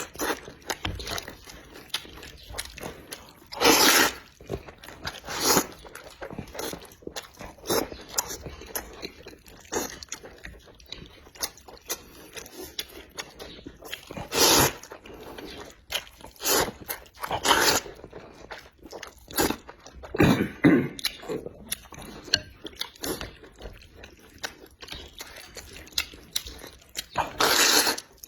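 Close-miked eating sounds: a person chewing and crunching food with small wet mouth clicks throughout, and louder crunching bites every few seconds.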